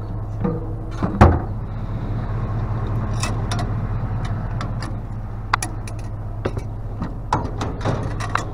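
Pickup truck engine idling steadily, with scattered sharp knocks and clicks over it, the loudest a single knock about a second in.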